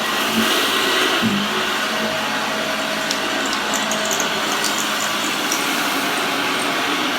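1968 Hoover Junior 1346 upright vacuum cleaner running, a steady rushing motor-and-fan noise, with a few faint ticks from about three seconds in.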